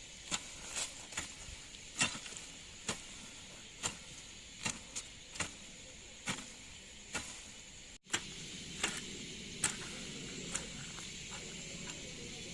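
Repeated sharp chopping strikes, roughly one a second, over a steady background hiss. About two-thirds of the way through they give way to a steadier hiss with a few lighter knocks.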